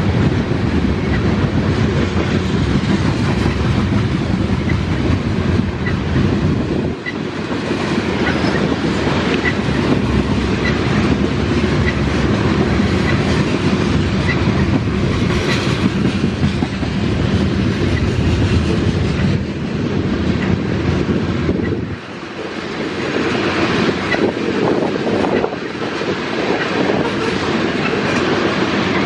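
Tank cars of a Canadian Pacific oil train rolling past: a steady rumble with the clickety-clack of wheels over the rails. A crossing bell dings about once a second.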